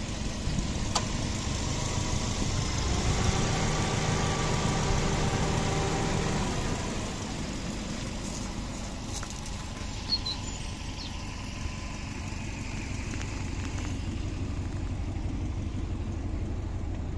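A 2003 Subaru Legacy's 2.0-litre twin-turbo boxer (flat-four) engine idling steadily. A humming tone rides over it in the first half and fades out about seven seconds in.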